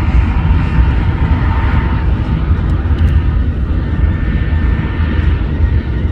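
Freight train running past with a loud, steady low rumble and a faint high squeal.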